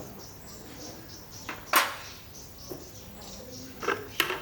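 A few sharp knocks, one much louder than the rest about two seconds in, with faint insect and bird chirping throughout.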